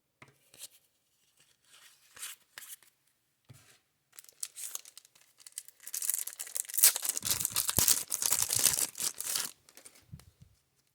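Baseball cards being handled: a few soft slides and brushes of cardboard, then about three seconds of loud, crackly rustling and crinkling in the second half.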